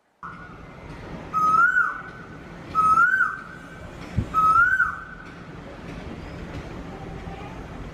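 A bird calling with three clear whistled notes, each rising then dropping, about a second and a half apart.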